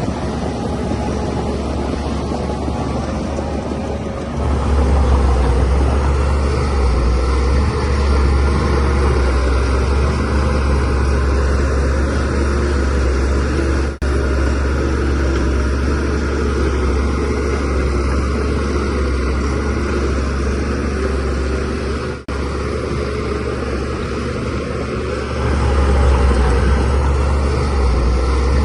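DH17C3 bulldozer's diesel engine working hard, a steady heavy low rumble that grows louder about four seconds in and again near the end. The sound drops out for an instant twice.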